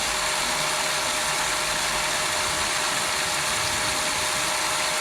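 Steady whirring of small motors and gear mechanisms, with a constant hum and hiss and no distinct knocks, typical of radio-controlled model construction machines working.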